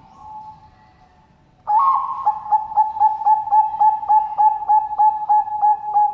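Zebra dove of the Thai 'perkutut bangkok' breed singing. A faint coo comes first, then, just under two seconds in, a loud rapid string of short cooing notes at about three a second.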